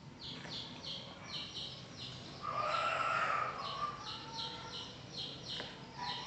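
A bird chirping in quick runs of short, high notes. About two and a half seconds in, a louder, lower sound lasts about a second.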